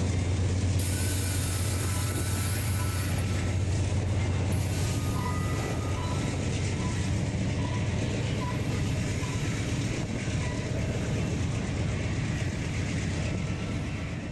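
BNSF freight train rolling past: a steady rumble with the rattle and clatter of cars and wheels on the rails.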